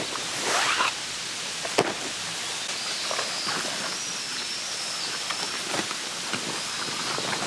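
Rustling and small knocks of someone moving about on the ground, with one sharp click about two seconds in, over a steady outdoor hiss. A faint, thin, high wavering tone runs from about three seconds in.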